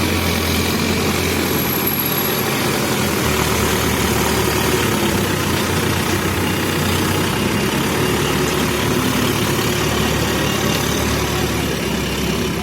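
Diesel engine of a Terex backhoe loader running steadily with a low hum.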